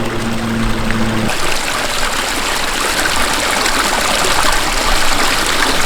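Stream water rushing and splashing close by, a steady loud hiss of flowing water that takes over about a second in, after a steady low hum.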